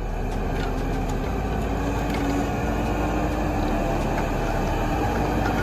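Logset 8H GTE Hybrid forestry harvester running steadily, a continuous machine drone with a faint steady hum.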